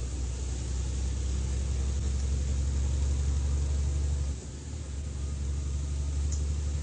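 Vehicle engine and road noise heard from inside a moving vehicle: a steady low hum that eases slightly about four seconds in.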